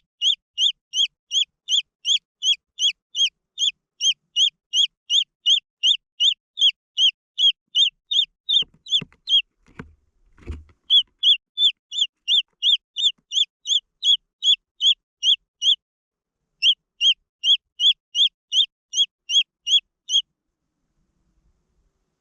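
Green junglefowl chick peeping over and over, about three short high peeps a second. The peeps break off briefly near the middle, where a couple of low thumps are heard, and stop about two seconds before the end.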